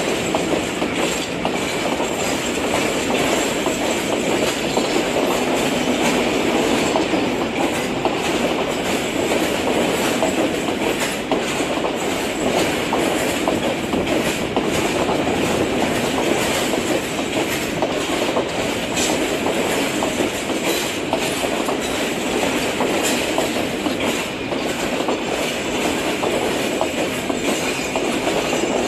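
Passenger train coaches rolling past on the rails, a steady wheel rumble with irregular clicks as the wheels cross rail joints.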